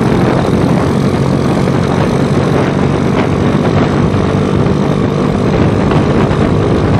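Motorcycle engine running steadily while riding, its even hum under a constant rushing noise of wind and road.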